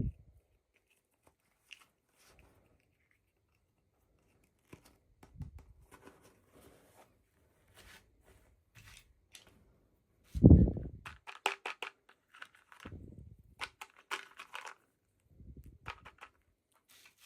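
Packaging being handled and opened by hand: intermittent tearing and crinkling with small clicks, and a heavier thump about ten and a half seconds in.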